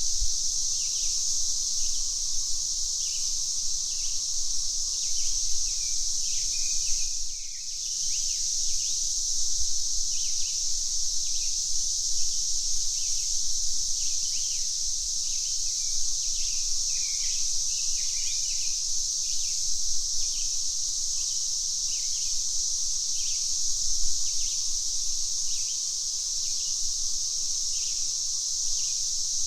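Cicadas droning steadily, with short bird chirps repeating about once or twice a second. The drone briefly dips out a little over seven seconds in.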